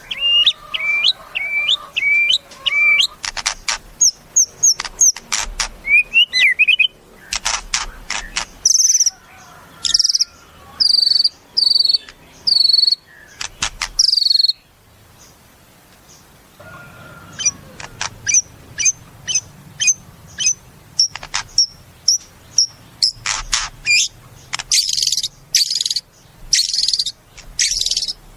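White-rumped shama (murai batu) singing a varied song: runs of quick repeated notes, clear whistled phrases and sharp ticking notes, with a short pause about halfway through before it starts up again.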